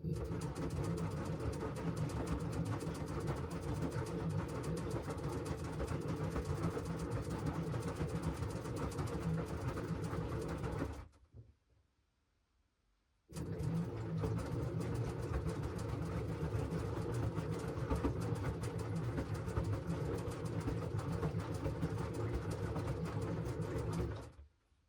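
LG washing machine running a wash cycle: the drum turns with a steady churning noise for about eleven seconds, stops for about two seconds, then starts again and turns for another eleven seconds before stopping near the end.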